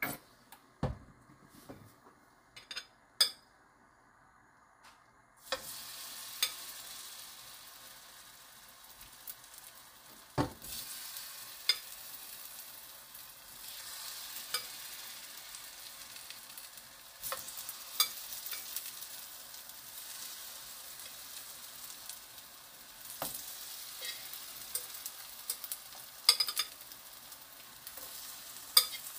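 Acorn-flour-battered zucchini slices frying in oil in a nonstick pan: a few sharp clicks first, then a steady sizzle that starts about five seconds in and carries on, with clicks of metal tongs against the pan as slices are laid in.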